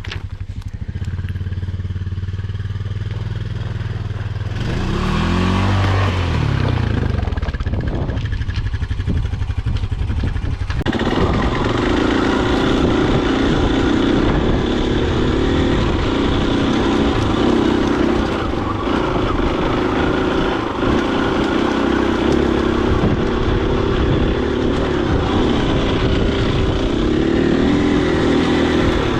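Husqvarna FE250's single-cylinder four-stroke engine idling, then revving up and down about five seconds in, and running steadily under load as the dirt bike rides on from about eleven seconds, louder and with more rattle and road noise.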